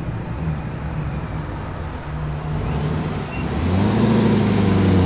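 A car engine running, growing louder about three and a half seconds in.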